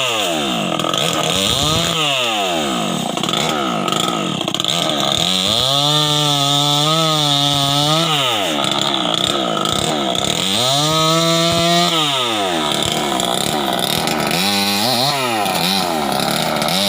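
Stihl 070 chainsaw's big single-cylinder two-stroke engine being revved: twice it is run up and held at high revs for a couple of seconds, dropping back to idle between, then given a few short quick blips near the end.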